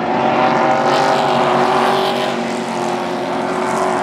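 Several Super Truck race engines running hard together, their layered engine notes drifting up and down in pitch as the pack laps.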